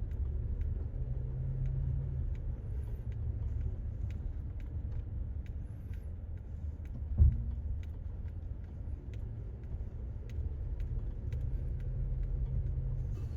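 Car driving slowly on a rough access road, a steady low road and engine rumble heard from inside, with one sharp thump about seven seconds in as a wheel drops into a divot. Faint ticks recur about twice a second throughout.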